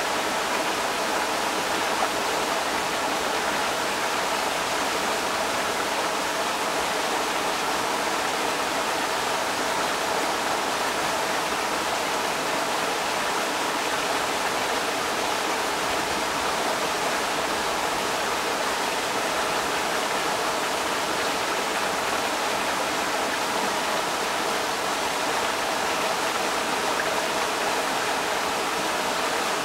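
Creek water rushing steadily over rocks, an even unbroken flow strongest in the middle pitches.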